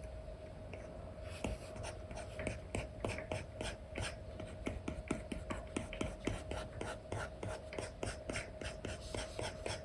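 Apple Pencil 2 with an Elecom nib scratching over a paper-like screen film on an iPad in short, quick strokes, about three or four a second, starting a little over a second in. A faint steady hum sits underneath.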